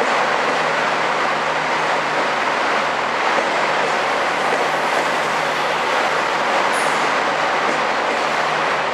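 TER regional multiple unit rolling along a station platform: a loud, steady rush of wheels and running gear over a low hum, with a brief high squeak about seven seconds in.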